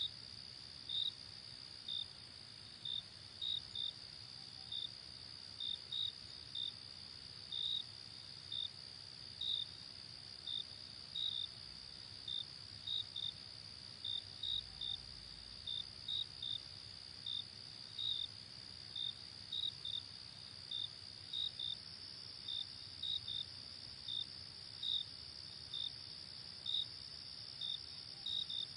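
Crickets at night: a steady high-pitched trill, with short chirps repeating irregularly about twice a second.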